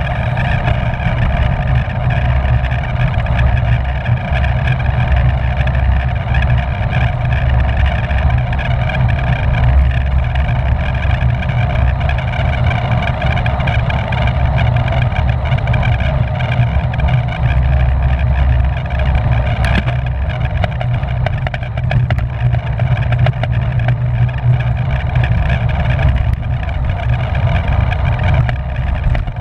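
Steady wind rush and buffeting on the microphone of a camera carried on a racing bicycle moving at speed.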